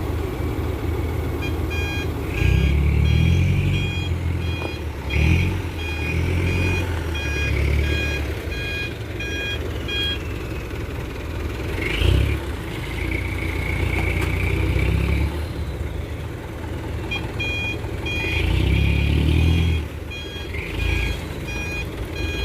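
Dump truck's engine running, with a few louder surges, while a reversing beeper sounds in quick repeated beeps for several seconds, stops, and starts again near the end.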